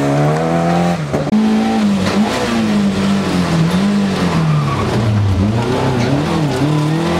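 Rally car engine accelerating hard, its pitch climbing steadily for about a second, then, inside a rally car's cabin, the engine revving up and falling back again and again as the driver works through the gears along a twisty lane.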